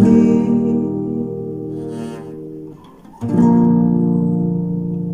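Closing chords of a song played on guitar: one chord rings and fades, then after a brief gap about three seconds in, a final chord is struck and rings out.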